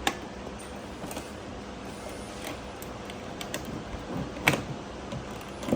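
Handpiece being pressed and rocked up and down into its socket on an IPL/laser beauty machine: a few sharp clicks and knocks, the loudest about four and a half seconds in, with smaller ticks between, over a steady hum.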